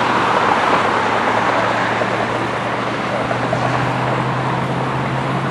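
Steady engine roar, with a low hum that grows louder near the end.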